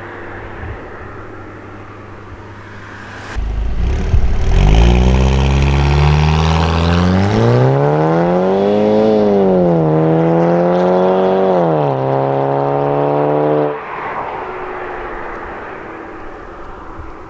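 Audi A4 2.0T turbocharged four-cylinder running with a catless downpipe. It hums steadily at first, then about three seconds in it is put under heavy throttle, its pitch climbing, dipping and climbing again. Near the end it drops off suddenly as the throttle is released, back to a lower steady drone.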